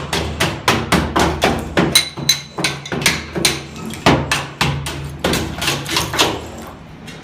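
Hammer blows in a quick, steady rhythm, about four a second, that stop near the end.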